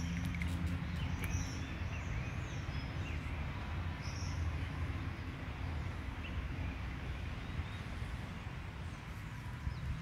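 Birds chirping now and then, short arched calls, over a steady low rumble of outdoor background noise.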